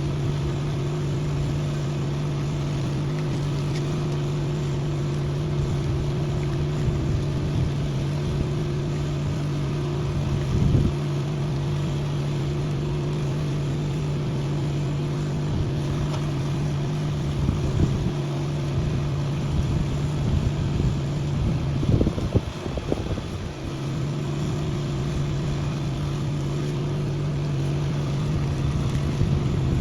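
A motor running steadily with a constant hum. It drops out briefly about 22 seconds in amid a few knocks, then resumes.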